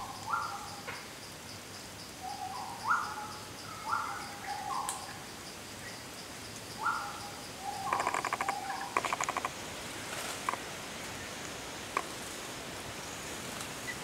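Forest bird giving short, mellow hoot-like whistles, each stepping up from a lower to a higher pitch, repeated in loose pairs and runs. About two thirds of the way through come a couple of quick rattling bursts, over a faint, steady, high insect ticking.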